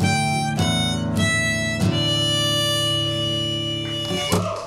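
Harmonica and acoustic guitar playing the closing phrase of a folk song: a few short notes, then one long held chord that stops about four seconds in.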